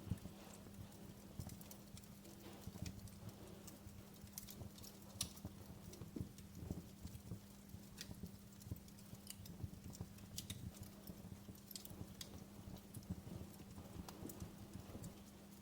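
Faint wood fire crackling: irregular small pops and snaps, a few sharper ones, over a steady low hum.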